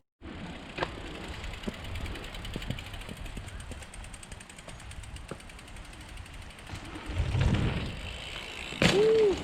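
Mountain bike on a dirt trail: tyres rolling and the rear hub's freewheel clicking, with a swell of tyre noise and then a loud thump near the end.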